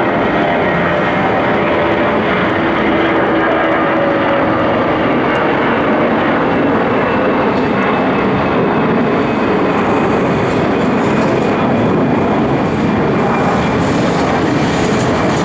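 Airbus A320 jet engines at take-off thrust: a steady, loud rush of noise with faint tones that drift slowly in pitch.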